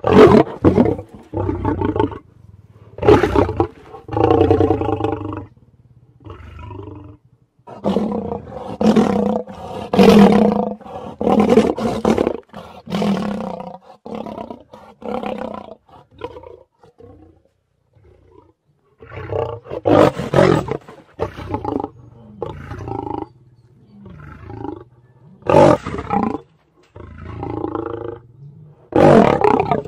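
Young lions calling again and again with short, rough roars, one call after another with brief pauses, and a lull of a couple of seconds a little past the middle.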